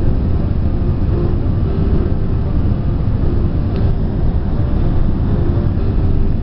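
Steady, loud low rumble of an Airbus A380 landing, with faint music notes laid over it.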